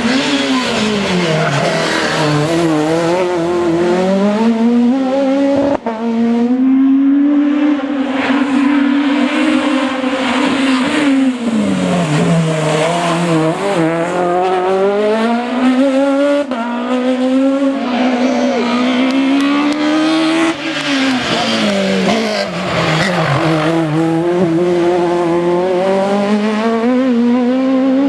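A two-litre F2000-class rally car engine at full effort, its revs climbing and dropping again and again as it works up and down the gears through a stage.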